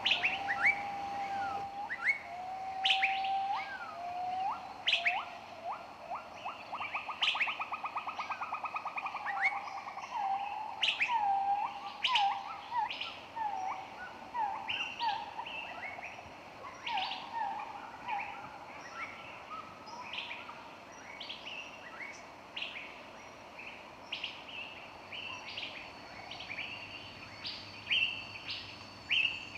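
Several birds singing and calling together: many short, sharp chirps repeating throughout, lower whistled notes in the first few seconds, and a fast trill starting about six seconds in.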